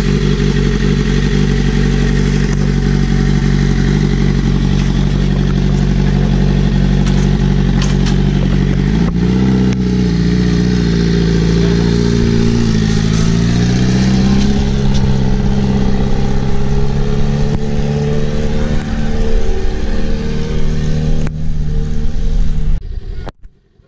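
Motorcycle engine running loud through an open exhaust with the slip-on muffler removed. It holds a steady note for about nine seconds, then revs up and down with the pitch rising and falling, and the sound drops away sharply just before the end.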